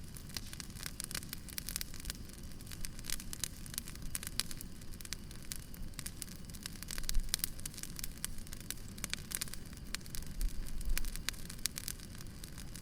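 Wood fire crackling, with many quick pops over a steady low rumble. A couple of soft low bumps come about seven seconds in and again near the end.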